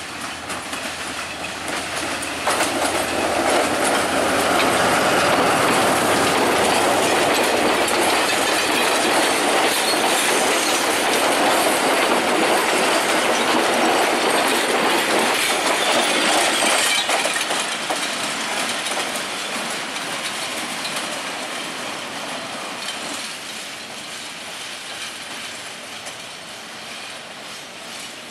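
Diesel-hauled passenger train rolling past, its coach wheels clattering over the rail joints and pointwork. It grows louder about two and a half seconds in and fades after about seventeen seconds as the train moves away.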